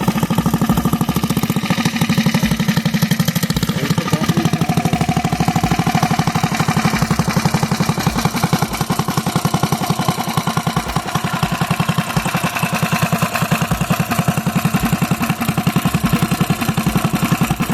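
Mini bike's small single-cylinder engine, fitted with a new PZ19 round-slide carburetor, running steadily with an even, rapid exhaust beat.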